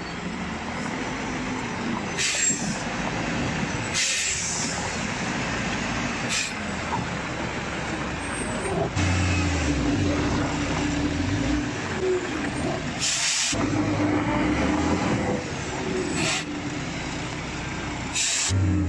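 Heavy truck engine running under load, with short air-brake hisses several times.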